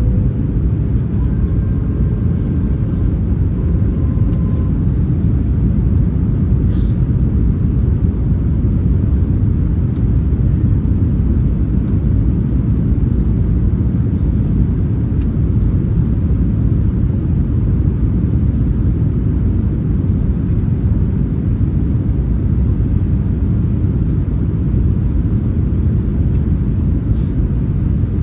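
Steady low roar of an Airbus A321's engines and rushing air, heard inside the passenger cabin during the approach.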